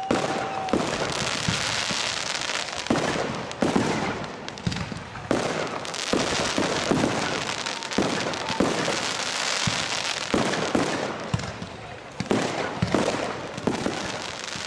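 Aerial fireworks bursting, with many sharp bangs in quick succession over continuous crackling.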